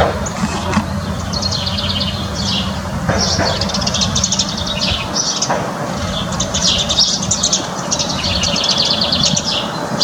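Several small songbirds chirping and twittering, with many short calls and fast trills, over a low steady rumble.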